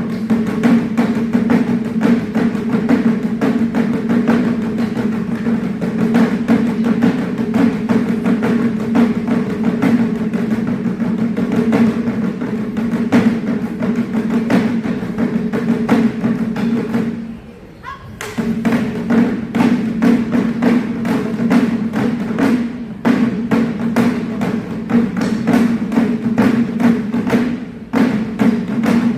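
Japanese taiko drums played by a wadaiko ensemble, struck with bachi sticks in a fast, dense rhythm. The drumming stops for under a second about two-thirds of the way through, then resumes.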